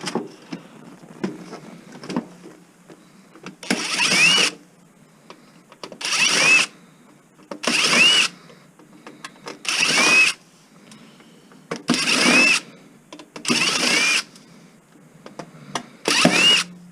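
Cordless drill-driver run in seven short trigger pulls about two seconds apart, its motor whine quickly rising in each, driving out a screw, with light handling clicks between pulls.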